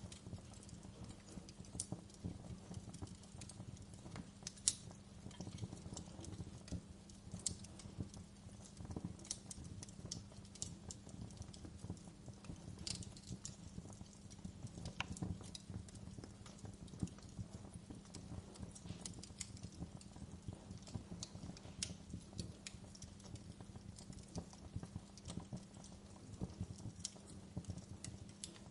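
Wood fire in a fireplace crackling steadily, with frequent small, irregular pops and snaps, one sharper pop about five seconds in, over a low steady hum.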